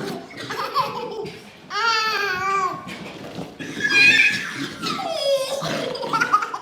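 A baby laughing in several separate peals, with babbling between them.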